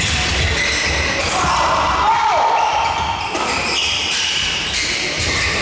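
Badminton hall during a doubles rally: court shoes squeaking on the floor in short high-pitched chirps, one sliding down in pitch a little past two seconds in, over the hall's echoing background.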